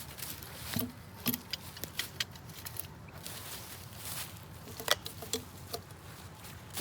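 Irregular light clicks and crunches, like footsteps, with one sharper click nearly five seconds in.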